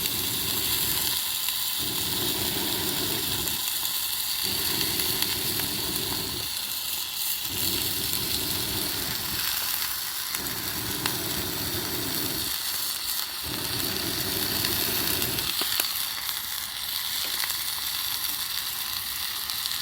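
Chicken gizzards and chicken skin sizzling as they stir-fry in a pan, a steady frying hiss. A low rumble comes and goes every couple of seconds and stops about three-quarters of the way through.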